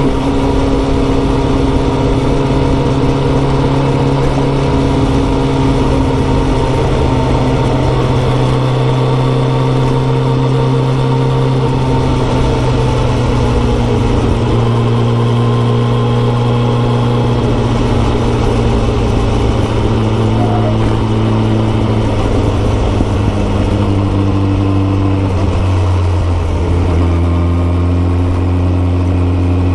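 Kawasaki ZX14R's inline-four engine through a Yoshimura exhaust, running at a steady cruising pitch under light throttle, with the note easing lower near the end.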